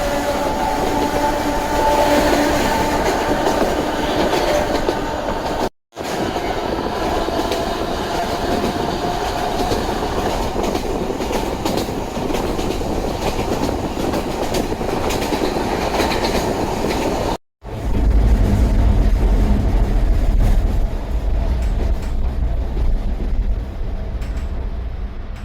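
Sangi Railway Hokusei Line narrow-gauge electric train running, its nose-suspended traction motors whining over a steady rumble and clatter of wheels on the rails. The sound cuts out abruptly twice, and after the second break a heavier, deeper rumble takes over.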